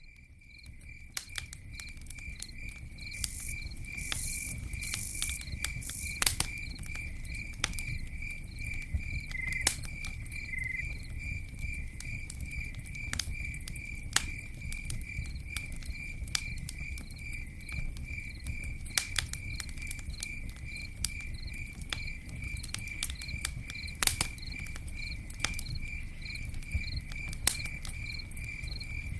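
Campfire crackling, with scattered sharp pops over a low steady rumble, fading in over the first couple of seconds. A cricket chirps steadily through it, about twice a second.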